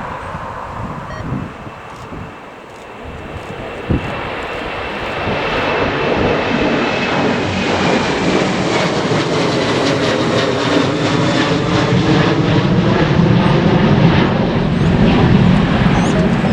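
Fixed-wing aircraft engine noise growing louder as the aircraft passes close by. A high whine slowly falls in pitch, and the noise peaks near the end.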